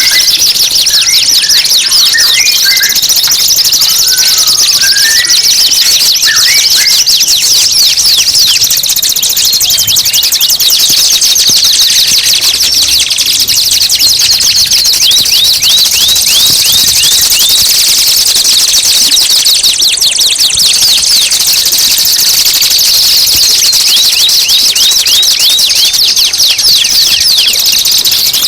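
Recorded songbird song, a dense, continuous high-pitched chatter of fast repeated trills, with a few lower chirps in the first seconds.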